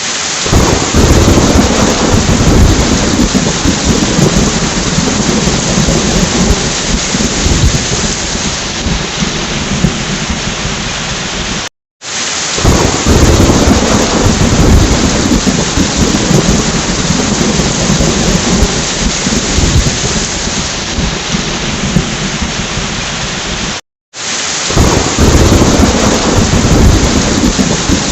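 Steady heavy rain with rolling thunder. The same stretch of about twelve seconds repeats: each time it cuts out for a split second, then a low thunder rumble swells and fades over several seconds into the rain.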